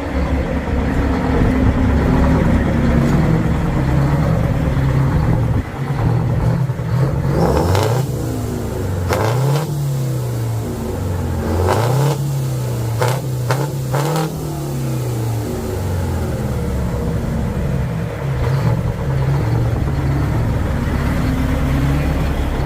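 Vehicle engine idling, then revved three times in quick succession in the middle, its pitch rising and falling with each rev before settling back to idle. A few sharp clicks come with the revs.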